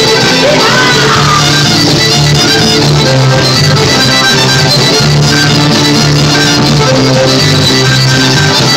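Live band playing an instrumental break, with a fiddle leading over guitar accompaniment.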